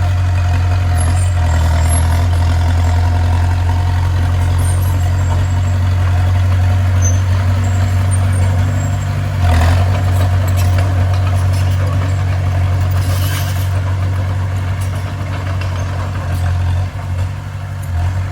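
Bulldozer's diesel engine running steadily, with a brief louder surge about halfway through.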